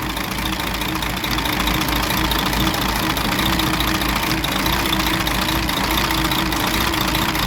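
DAF 105 truck's diesel engine idling steadily.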